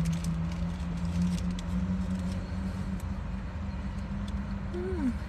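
Steady low hum of an idling car heard inside its cabin, its pitch stepping up slightly about two seconds in, with faint clicks and rustles of chewing and a food wrapper.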